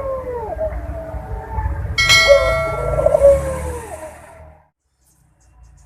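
Ringneck (puter) dove cooing its breeding coo in two phrases of gliding notes, the second starting about two seconds in with a short metallic ring. A low rumble runs underneath, and everything cuts off about four and a half seconds in.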